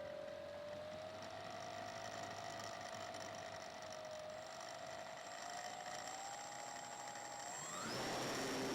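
Slow Stick RC plane's electric motor and propeller whining in flight, heard from on board with some wind rush; the pitch drifts slightly, then rises sharply near the end as the throttle is opened and the sound gets louder.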